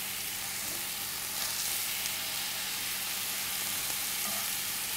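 Brown oyster mushroom clusters sizzling steadily in hot oil in a cast-iron skillet, with light knocks of metal tongs as the pieces are turned.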